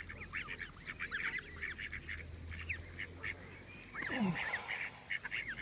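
A crowd of ducks calling around the hand that feeds them: many short, overlapping calls with no let-up, and a lower call sliding down in pitch about four seconds in.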